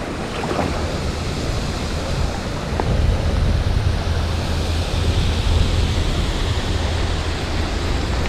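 Steady rushing noise of a rain-swollen creek in the rain, with a strong low rumble and a few faint clicks.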